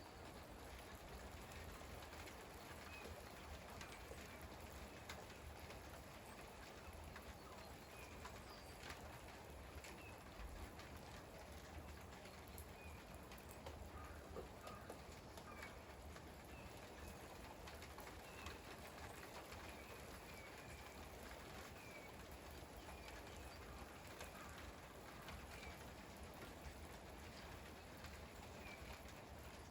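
Light rain falling, a faint steady hiss with scattered drips landing on a surface. Faint short high chirps come and go throughout.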